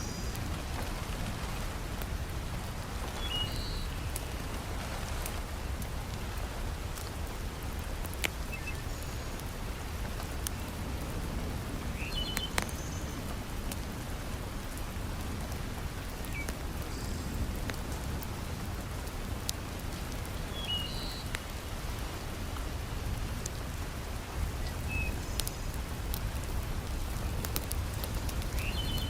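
Heavy rain falling steadily, mixed with the scattered sharp crackles of a wood fire. A few brief high chirps recur about every nine seconds.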